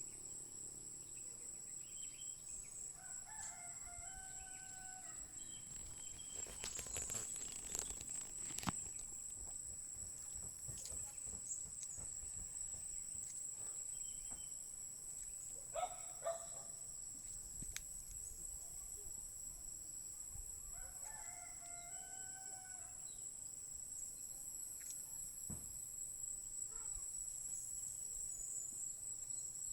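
Village morning ambience: roosters crowing a few times over a steady, high-pitched insect trill. A brief scatter of clicks and rustling comes about a quarter of the way in.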